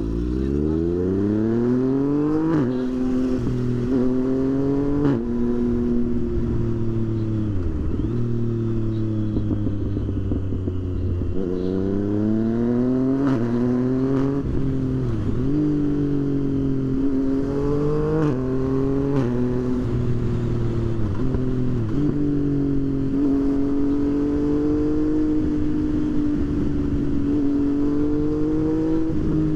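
Motorcycle engine pulling away and accelerating through the gears, its pitch climbing and dropping at each upshift. It slows and runs low for a few seconds, then accelerates through the gears again and settles into a steady cruise near the end.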